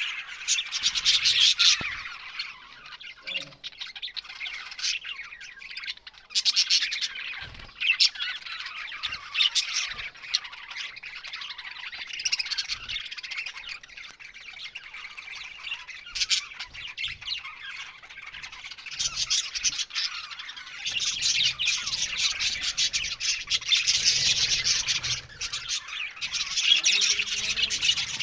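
A flock of budgerigars chattering, warbling and squawking together: a dense, constant chorus of short sharp calls that swells louder near the start, again around a quarter of the way in, and most strongly in the last quarter.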